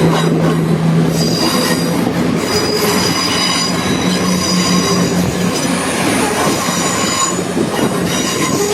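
A pair of Class 170 Turbostar diesel multiple units pulling out of the station, their engines running steadily under load. High-pitched wheel squeal comes and goes over the steady hum.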